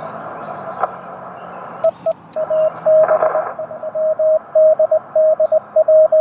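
Morse code (CW) from a Yaesu FT-891 transceiver: a single steady beep keyed on and off in dots and dashes over constant radio band hiss. A few sharp clicks come about two seconds in, and the keyed tone grows loud and quick after that.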